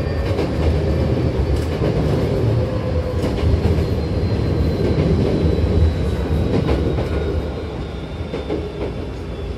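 Hankyu Kyoto Line electric commuter train running, heard inside the passenger car by the doors: a steady low rumble of wheels on rail with scattered clicks, easing slightly over the last couple of seconds.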